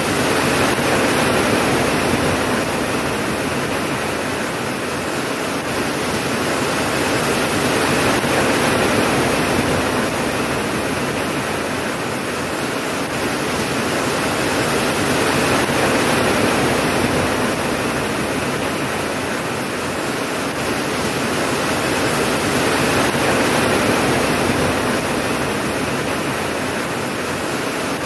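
Steady heavy rainfall, an even rushing hiss that swells and eases slowly every several seconds, with no thunder.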